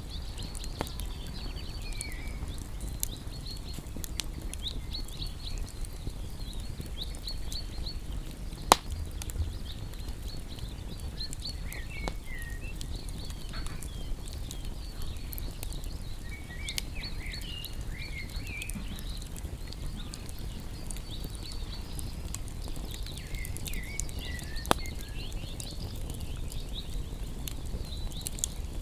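Wood bonfire crackling with scattered pops, the loudest snaps about nine seconds in and near the end, while small birds chirp and trill throughout with short warbled phrases now and then.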